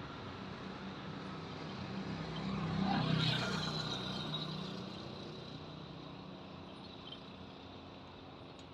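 A motor vehicle passing by: its engine hum rises, is loudest about three seconds in, then slowly fades away.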